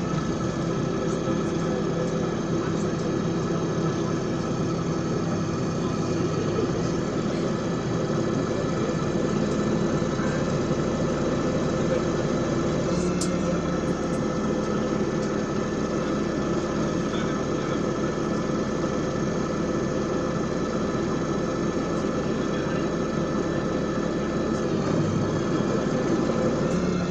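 LiAZ 5292 city bus engine idling steadily while the bus stands at a stop, heard from inside the passenger cabin.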